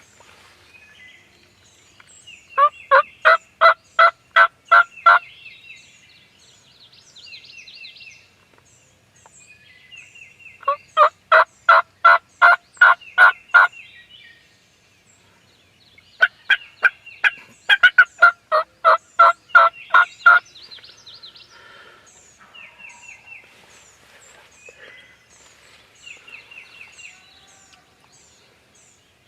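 A large bird calling in three bouts of rapid repeated notes, about four a second, each bout a few seconds long, with smaller birds chirping faintly in the background.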